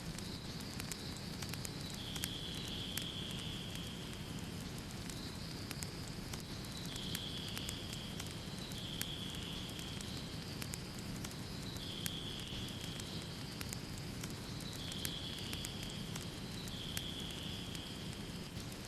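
Wood fire crackling, with frequent sharp pops and snaps over a steady rush of flames. A faint high tone runs underneath, stepping between two pitches every second or two.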